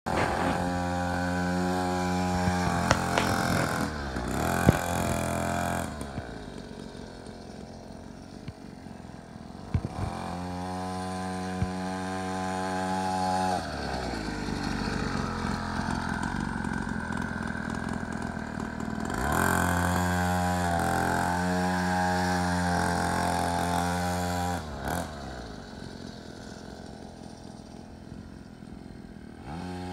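Small dirt bike engine running steadily, loud for stretches and fading for others as the bike comes near and moves away, with a few sharp clicks along the way.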